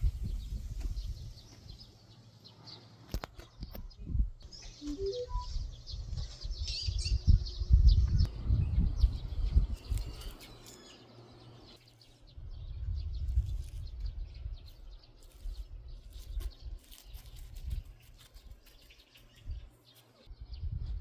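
Small birds chirping in a forest, most busily from about four to eleven seconds in, over a low rumble that swells and fades in gusts and is the loudest sound.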